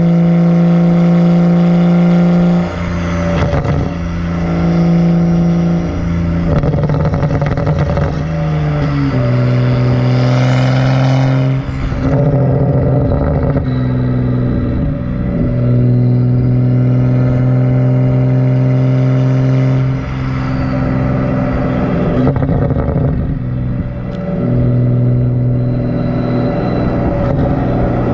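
Catless, muffler-deleted exhaust of a tuned BMW 135i's N55 turbocharged inline-six, with the car under way: a loud, steady exhaust drone whose pitch steps lower a few times, with brief dips in loudness between.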